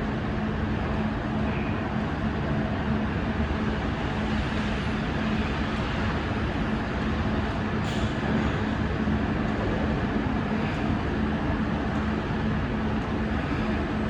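Steady vehicle rumble with a constant low hum, even in level throughout.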